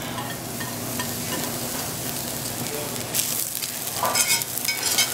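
Morel mushrooms and chopped ramps frying in hot olive oil in an enameled cast-iron skillet: a steady sizzling hiss that crackles up louder twice in the second half.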